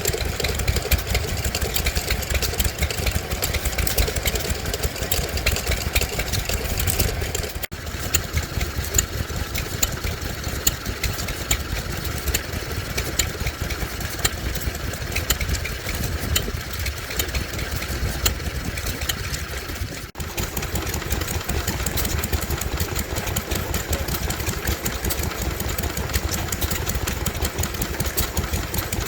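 Vintage stationary oil engines running at a steady rhythmic beat. The sound changes abruptly twice, about 8 seconds and 20 seconds in, as one running engine gives way to another.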